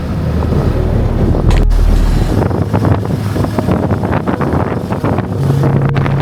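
Wind buffeting the microphone on a moving Hero Xpulse motorcycle, with the engine running steadily underneath. A heavy low rumble drops away about two and a half seconds in.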